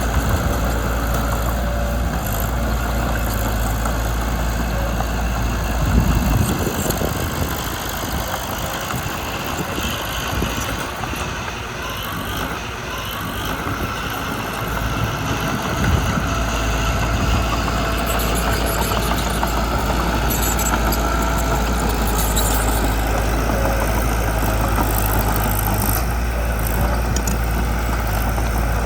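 Diesel engine of a Mitsubishi BD2 crawler bulldozer running steadily. Its low drone eases off for about ten seconds in the middle, then returns.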